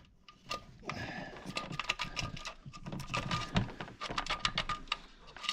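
Metal timing chain and guide clinking and rattling as they are handled by hand inside the engine, a quick irregular run of light clicks and knocks with a faint metallic ring.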